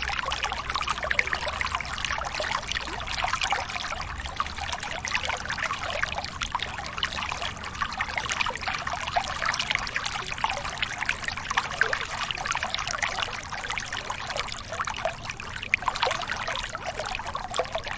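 Small waterfall splashing and pouring steadily, water spattering onto water and rock.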